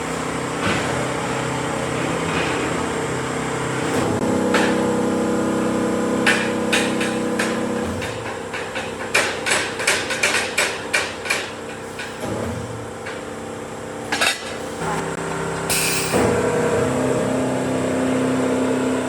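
A hammer striking metal in a run of about a dozen sharp blows, about three a second, with one more blow a little later, over a steady workshop hum.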